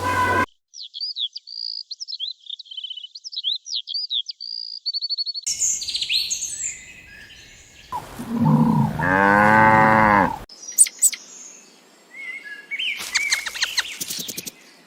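A string of animal calls: a bird chirping and trilling rapidly for about five seconds, then a cow mooing once for about two and a half seconds, followed by more short bird-like chirps.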